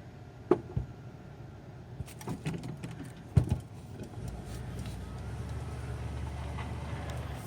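Mid-1980s Ford motorhome's engine running after sitting unused for two years, heard from inside the cab as a steady low rumble. Sharp clunks come about half a second and three and a half seconds in, with some rattling between them, and the engine grows a little louder and steadier over the last couple of seconds.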